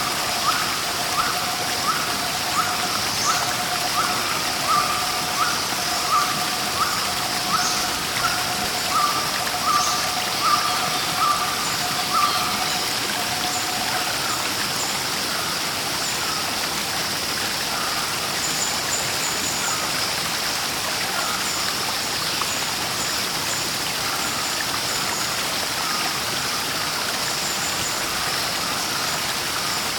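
Steady rush of a waterfall, with a bird repeating a short call about every 0.7 seconds for roughly the first twelve seconds, then only faint high chirps over the water.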